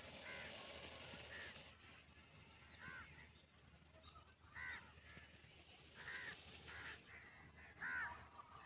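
A bird calling faintly with short calls repeated every second and a half or so, the loudest near the end.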